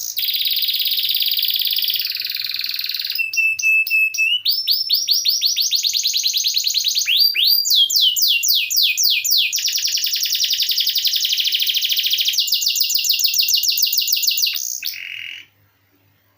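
Domestic canary singing a long song of rapid trills and rolls, each phrase a fast run of repeated high notes, switching from one trill to the next every second or two; the song stops abruptly about fifteen seconds in.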